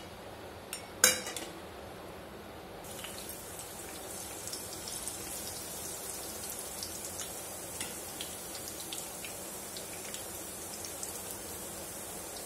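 Cumin seeds and chopped green chillies frying in hot oil in a wok. A hiss with many small scattered pops sets in about three seconds in as the cumin starts to splutter. About a second in there is a sharp knock, the loudest sound.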